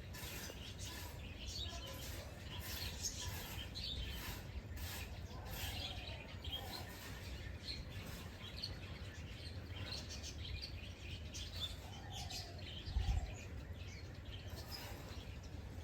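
Several birds chirping and calling in quick short notes, over a low steady rumble. A brief low thump comes about three-quarters of the way through.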